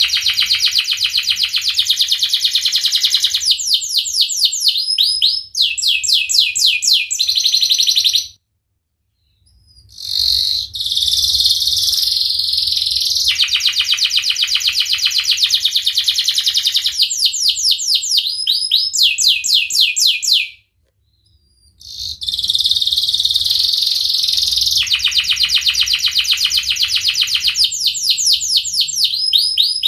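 Domestic canary singing long, fast rolling trills and chirps, in three long bouts broken twice by about a second of silence.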